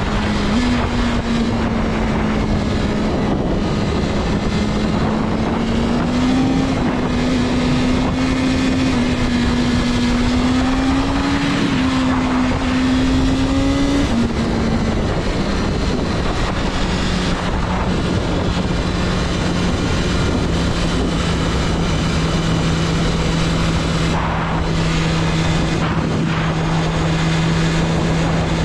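BMW S1000RR motorcycle's 999cc inline-four engine running under way at a steady, fairly high engine speed, its pitch wavering slightly and then settling lower about halfway through, under a constant rush of wind noise.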